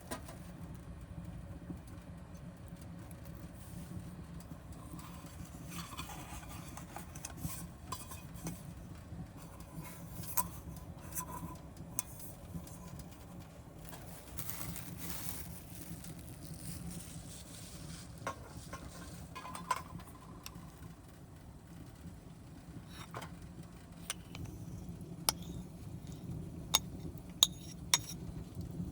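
Scattered light metallic clinks and taps of cooking gear being handled, such as a grill net and utensils, over a steady low rumble.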